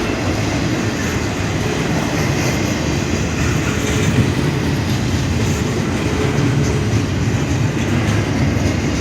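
Freight train rolling past at a grade crossing: a steady rumble of wheels on rail with a little clickety-clack.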